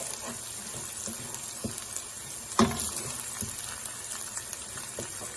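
Oil sizzling steadily in a pan with onions, garlic, ginger and herbs frying in it, broken by a few light clicks and one sharp knock about halfway through.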